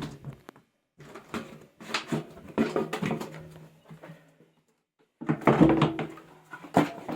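Bursts of knocking and clattering as a washing machine tub is worked open, in two spells with a brief pause between them, some knocks ringing briefly.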